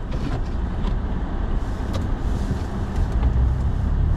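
Steady low rumble of a four-wheel-drive truck driving on snowy roads, engine and tyre noise heard from inside the cab, with a few faint ticks.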